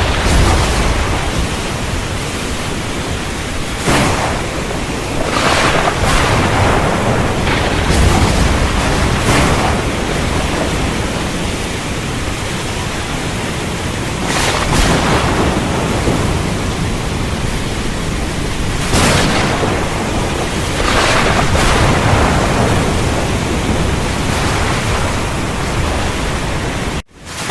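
Heavy rain falling steadily, with repeated short thunderclaps and rumbles swelling out of it every few seconds. The sound cuts out for a moment near the end.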